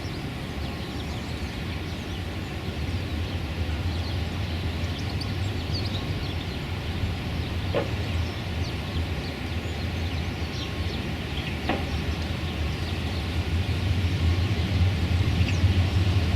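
Outdoor ambience of a steady low rumble that grows a little louder toward the end, with faint, brief bird chirps scattered through and two short calls about eight and twelve seconds in.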